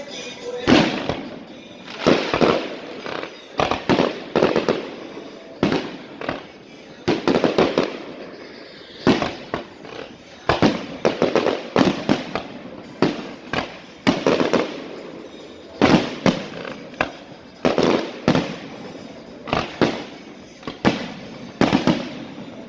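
A long series of loud, sharp bangs at irregular intervals, sometimes one a second and sometimes several in quick succession, each with a short decay.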